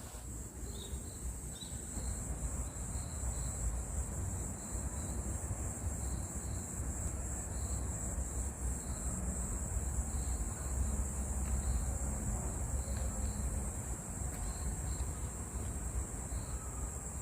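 Outdoor insect chorus: a steady high-pitched drone with short, repeated chirps about once or twice a second, over a low rumble.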